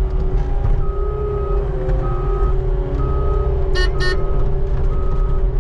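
Skid steer engine running steadily under load while its backup alarm beeps about once a second as it reverses. Two short high squeaks come a little before the middle.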